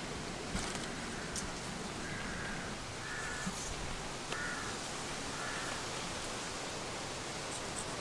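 A steady outdoor hiss, with a bird calling in four short calls about a second apart, and a few faint ticks.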